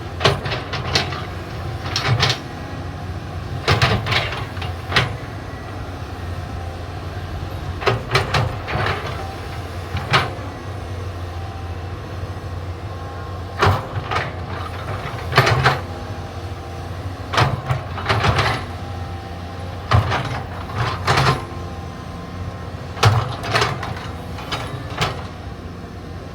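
Caterpillar 320D hydraulic excavator's diesel engine running steadily while digging, with repeated sharp metallic clanks and knocks every second or two from the bucket and arm working.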